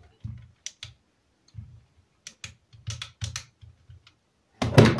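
Irregular clicking and knocking of small parts being handled on a Grundig 4040W radio chassis while the dial drive is reassembled, with a louder knock near the end.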